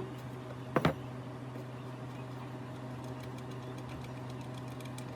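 A small motor running with a steady, even hum, with one sharp knock a little under a second in and a few faint clicks after.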